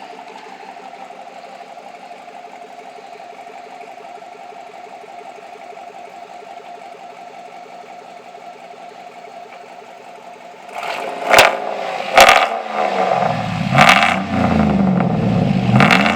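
Chevy 6.0-litre V8 pickup engine with a new Flowmaster FX muffler, idling steadily, then revved about ten seconds in with several quick throttle blips, the exhaust note rising and falling.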